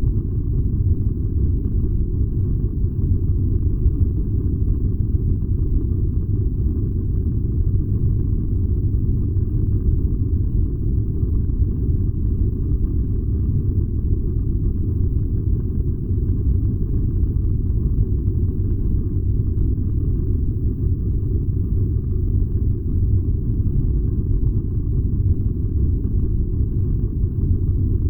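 Furnace running with a steady, deep rumble.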